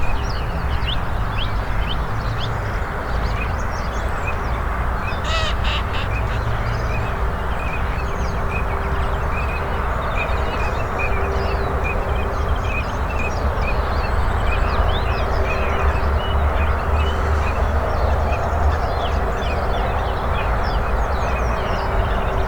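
Wild birds calling in the open: many small birds chirping throughout, and a single harsh caw about five seconds in. A low, steady rumble runs underneath.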